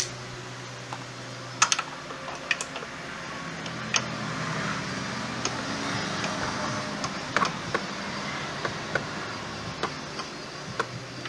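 Scattered sharp clicks and taps, like hand tools being handled, over a steady low hum.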